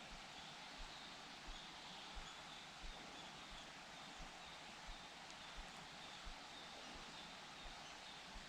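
Quiet forest ambience: faint, distant high-pitched bird notes recurring about once a second over a steady hiss, with soft low thumps about every two-thirds of a second.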